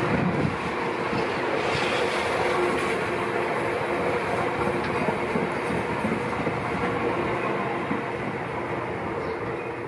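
A regional multiple-unit passenger train running past on the rails, its wheels clattering and rumbling with a steady hum, fading toward the end as the last car goes by.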